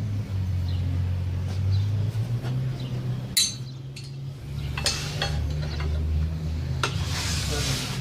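Scattered metallic clinks and clicks of hand tools and engine parts being handled during a timing chain job, a handful of sharp ones in the middle and later part, over a steady low hum.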